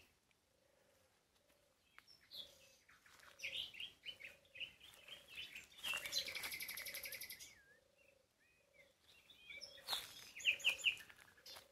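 Birds chirping and trilling: scattered short high chirps, a fast buzzy trill about six seconds in lasting over a second, and another quick run of chirps near the end. A faint low note repeats about twice a second underneath.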